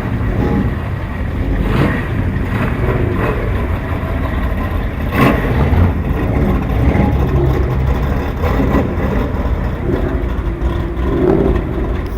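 Car engines rumbling as vehicles drive past, with a brief sharp knock about five seconds in.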